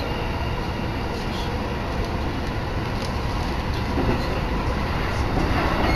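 Electric commuter train running between stations, heard from inside the carriage: a steady rumble of wheels on the rails with a few faint clicks.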